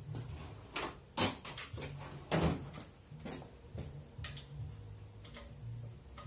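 A series of sharp knocks and clunks, about eight of them and the loudest about two and a half seconds in, over a low, uneven rumble.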